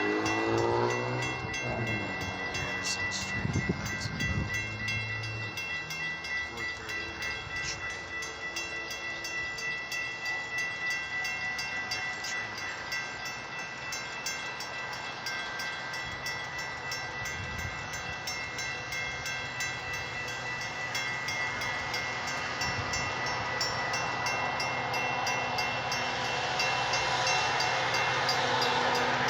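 Metra commuter train running past on the rails, with a falling horn-like note in the first second and a steady noise of the train throughout.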